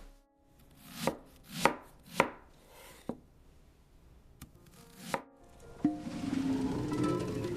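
Knife chopping vegetables on a wooden cutting board, about six separate cuts, each a short slice ending in a knock on the board. Near the end a louder, steadier sound follows.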